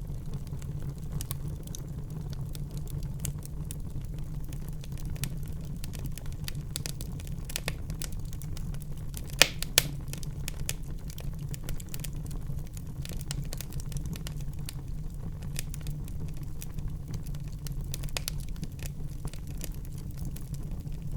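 Wood fire burning in a fireplace, a steady low rumble of flames with scattered small crackles and two louder sharp pops about halfway through.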